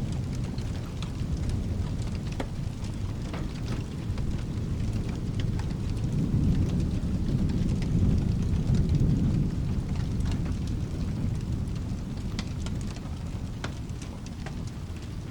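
Low rolling thunder rumbling over steady rain, swelling in the middle and fading away near the end, with scattered sharp clicks through it.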